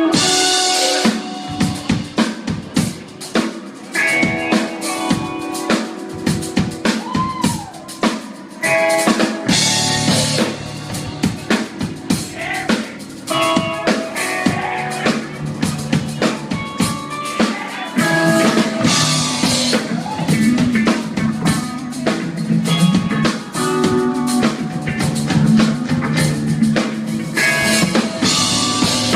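Live rock band playing the instrumental opening of a song: a drum kit with snare and bass drum drives it, with guitar over the top. The low end fills in about ten seconds in.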